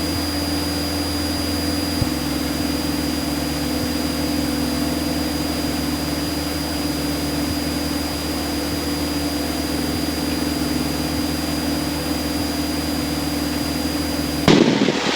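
Light aircraft's engine and propeller droning steadily, heard from inside the cockpit in flight, with a short loud burst of noise near the end.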